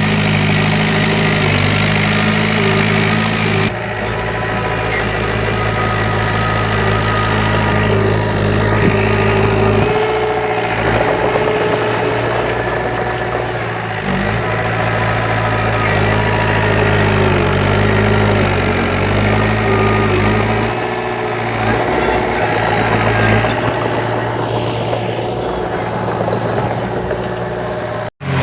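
Diesel engine of a heavy earthmoving machine running steadily, its note shifting about 4 and 10 seconds in, with a sudden brief dropout just before the end.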